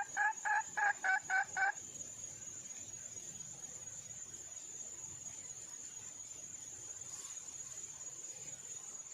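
Junglefowl hen calling a rapid series of short, even notes, about five a second, which stops about two seconds in. A steady high insect trill, like crickets, continues throughout.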